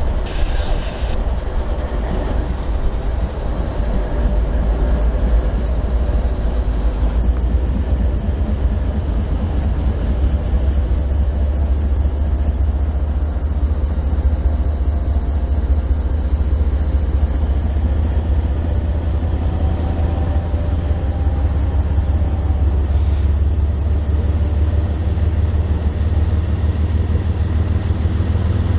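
BNSF freight train rolling past: a steady, loud rumble of rail cars on the track, with a deeper engine drone building near the end.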